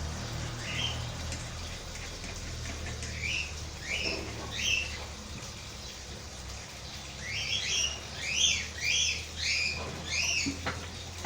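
A small bird chirping: scattered short chirps, then a quick run of about six in a row in the second half.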